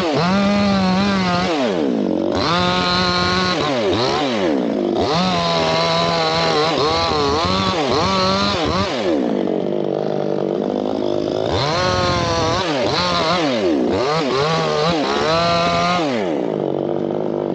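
Two-stroke chainsaw running at high revs while cutting teak wood, its engine speed dipping and climbing back several times as the chain takes load.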